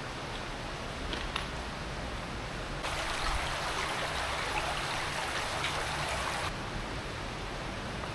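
Steady rush of running water inside a cave, from the underground waterfall and streams. About three seconds in, a louder, brighter hiss of splashing water comes in suddenly and cuts off about three and a half seconds later.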